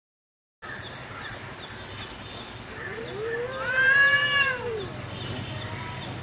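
A cat gives one long, drawn-out meow about three seconds in, rising and then falling in pitch, over a faint steady hum.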